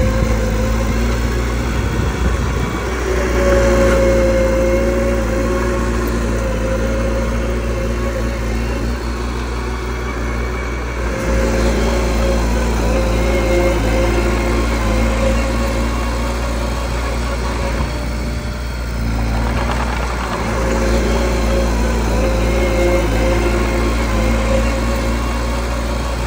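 Mini bulldozer's diesel engine running under work, its level swelling and easing off several times.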